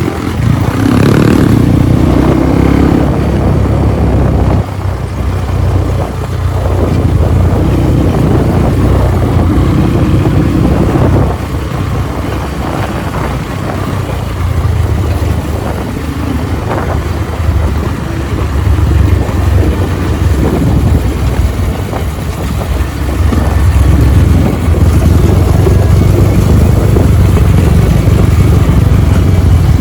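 Off-road trail motorcycle engine running under way, loud and low, its loudness swelling and dipping several times and highest near the end.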